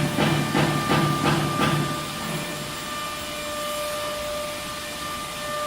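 Disk tool change CNC router running. An even pulsing, about three a second, stops about two seconds in, leaving a steady hiss with a steady whine.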